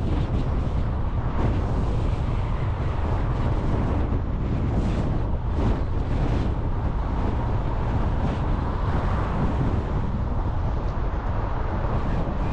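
Steady low rumble of a car being driven, the road and wind noise of the drive.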